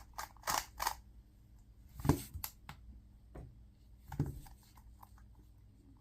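A 2x2 speed cube being handled and turned, giving scattered sharp plastic clicks and clacks: three quick ones in the first second and louder clacks about two and four seconds in.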